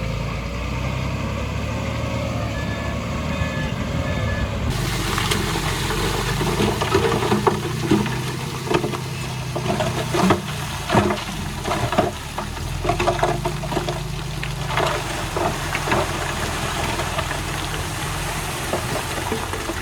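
Diesel engine of heavy earthmoving machinery running steadily. From about five seconds in come irregular metallic clanks and knocks.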